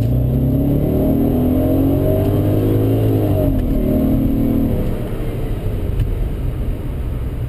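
2001 Audi A6 4.2's V8 engine accelerating, heard from inside the cabin: its note climbs for about three seconds, then falls and eases off about five seconds in. It sounds good and pulls well.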